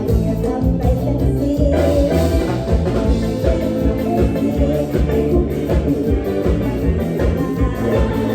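Isan mor lam band playing a lively toei la tune live, with a steady beat in the bass and drums.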